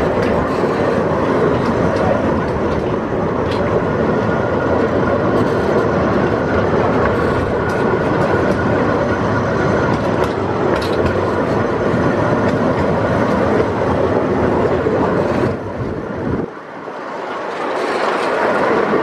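A miniature park train's open passenger cars rolling along the track, with a steady running noise and a few faint clicks. The noise dips sharply about three seconds before the end, then builds again.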